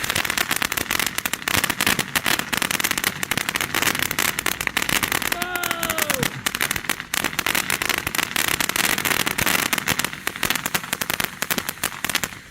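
Ground firework crackling densely and rapidly, a fast stream of small pops throughout, with a brief falling whistle about halfway through.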